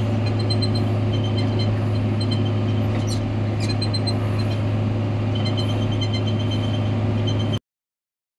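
John Deere 670G motor grader's diesel engine running at a steady pitch, with a couple of faint high squeaks about three seconds in. The sound stops suddenly near the end.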